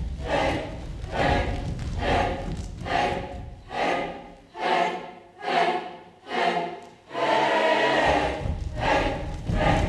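A choir singing in short, rhythmic phrases, then holding a sustained chord about seven seconds in.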